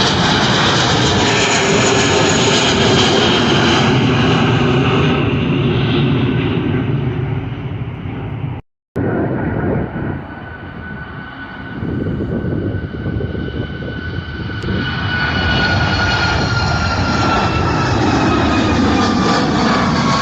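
Jet airliner engines at takeoff thrust, loud and steady, easing off over a few seconds before a brief total dropout about nine seconds in. The jet noise then builds again, with a high whine slowly falling in pitch as an aircraft passes.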